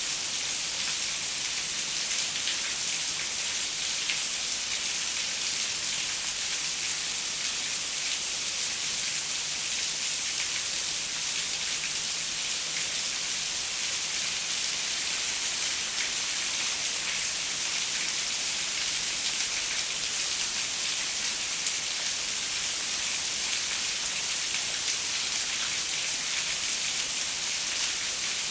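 Steady rain falling on a window: an even hiss with faint ticks of single drops striking the glass.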